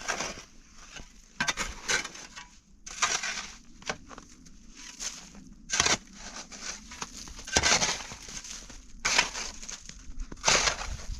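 Footsteps crunching through snow, irregular crunches about one every second or two.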